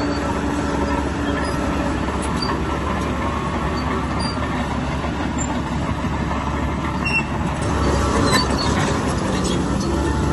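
Bulldozer's heavy diesel engine running under load as it works, with scattered short metallic squeaks and clicks from the machinery; it gets louder from about eight seconds in.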